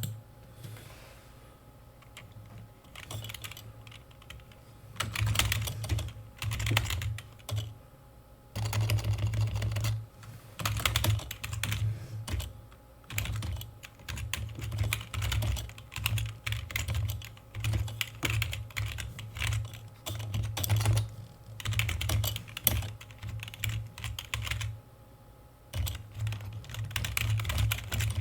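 Computer keyboard being typed on in quick runs of key clicks, broken by short pauses between bursts of words.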